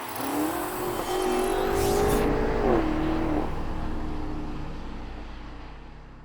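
BMW X6M's twin-turbo V8 through a valved sport exhaust, passing by under acceleration: the engine note climbs and grows louder, falls in pitch as the car goes by about three seconds in, then fades away.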